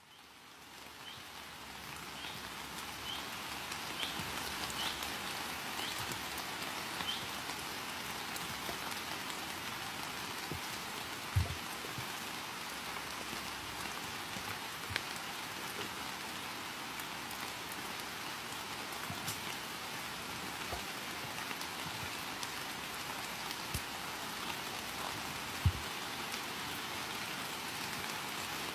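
Steady rain falling, fading in over the first few seconds. A few faint short high chirps come early on, and two dull low thumps stand out, one about a third of the way in and one near the end.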